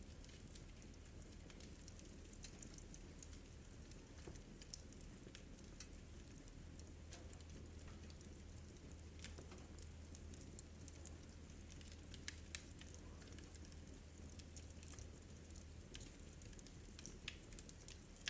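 Wood fire crackling in a fireplace: faint, irregular pops and snaps, a pair of louder ones about twelve seconds in, over a low steady hum.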